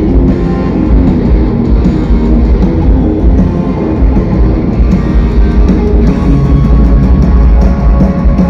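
Loud rock music, an instrumental passage with guitar and a drum kit, without vocals.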